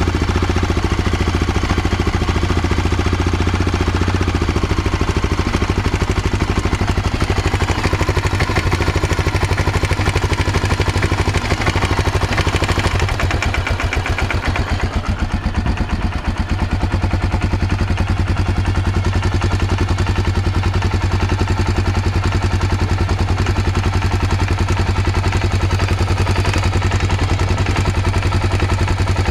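Honda XR650L single-cylinder engine idling with a knock in it. The idle sags briefly about halfway through and then picks back up.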